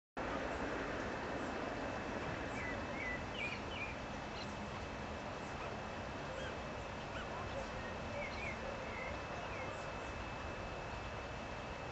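Steady outdoor background noise with a faint, steady high tone. Short, faint bird chirps come in a few times, around three seconds in and again about eight seconds in.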